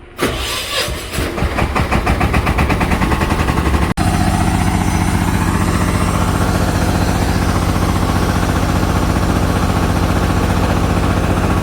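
An engine starts abruptly and runs with an uneven pulsing beat for about four seconds. It then settles into a steady run.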